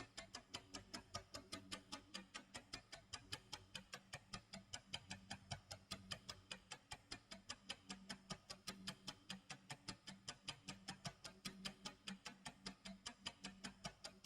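Clock tick-tock sound effect: quiet, even ticking at about four ticks a second, over a faint low hum.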